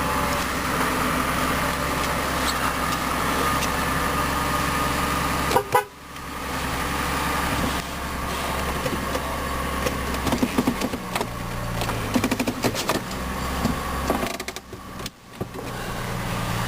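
2003 GMC Envoy SLE engine idling steadily just after start-up, with a steady higher tone over the low hum. A sharp knock comes near six seconds in, and there are scattered clicks in the second half.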